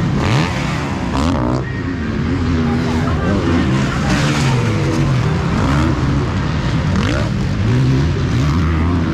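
Several motocross motorcycle engines revving at once, their pitches repeatedly rising and falling and overlapping as the bikes accelerate and shift.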